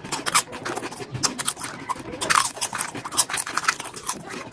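Birds calling at a food and water spot, a busy run of short, sharp chirps and clicks.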